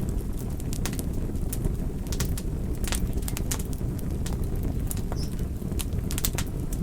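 Wood fire crackling: a steady low rumble of burning with irregular sharp pops and snaps, some in quick clusters.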